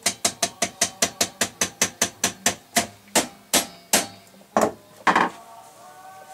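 Light hammer tapping driving a part onto a shaft of a Rock-Ola 443 jukebox mechanism. The quick, even taps come about four or five a second, then slow to a few harder blows. The hardest blow, about five seconds in, leaves a brief metallic ring.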